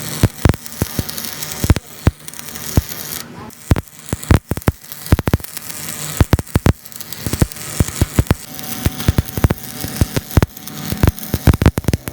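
Hand tools working on heavy metal parts: irregular sharp metallic clicks and knocks, several a second, over a steady background noise.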